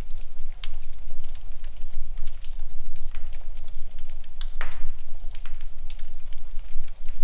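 Wood fire in a fireplace crackling, with irregular sharp pops and one louder pop a little past halfway, over a steady low rumble.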